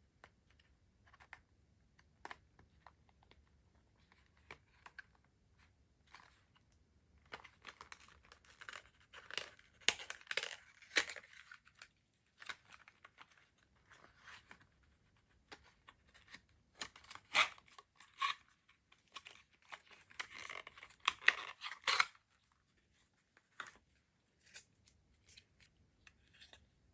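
Stationery purchases and their packaging being handled and opened: crisp crackling and rustling handling noises with small taps, busiest in two spells, one around the first half and one later on.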